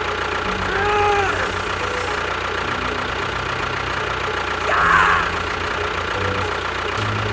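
A small engine idles with a steady knocking chug, its pitch shifting in steps every second or so. Two brief higher-pitched sounds rise over it, about a second in and about five seconds in.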